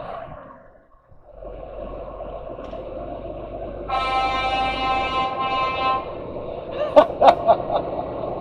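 A horn sounds one steady note for about two seconds over a continuous vehicle rumble, followed near the end by a few sharp clicks.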